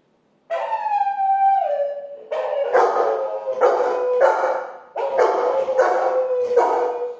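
Recorded dog sound effects played through a small portable speaker: after a half-second pause, one long howl falling in pitch, then a quick run of about eight barks over a steady held tone.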